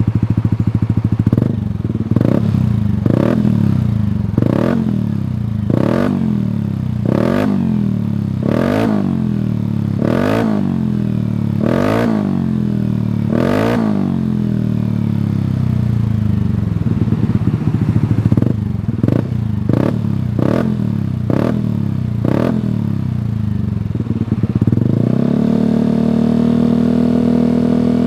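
Yamaha Aerox scooter's single-cylinder engine breathing through an aftermarket Shijiro racing exhaust, idling and blipped over and over: each stab of throttle jumps and falls back to idle, quicker blips follow, and near the end the revs rise and are held at a steady higher note.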